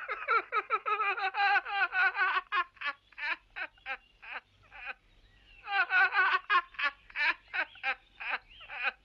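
Rapid, high-pitched laughter, a fast string of 'ha' syllables in two long runs with a brief pause about halfway through.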